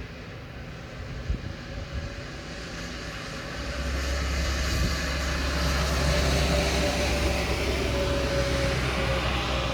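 Vehicle traffic on a wet road in the rain: a steady rumble with tyre hiss that builds up about four seconds in and stays loud.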